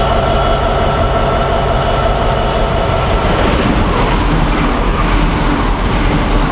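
Chiltern Railways Class 168/0 'Clubman' diesel multiple unit running non-stop through a station. A steady high tone and rumble come first as it approaches. From about three and a half seconds in, a loud rush of wheel and engine noise follows as the carriages pass close by.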